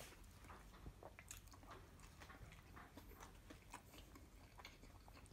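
Faint chewing of a burger: soft, irregular wet mouth clicks as a bite is chewed.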